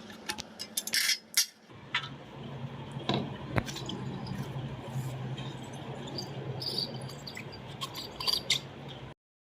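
Scattered light metallic clinks, clicks and scrapes of tools and small metal parts as the blades are taken off a three-blade fan, over a low steady hum. The sound cuts off abruptly about nine seconds in.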